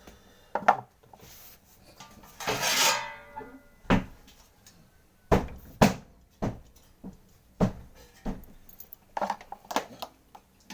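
Clatter of hard objects being handled and set down: a series of sharp knocks and clicks, with a brief scraping rustle about two seconds in.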